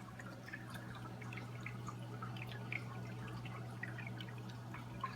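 Small paludarium waterfall trickling, with scattered drips falling into the water over a steady low hum.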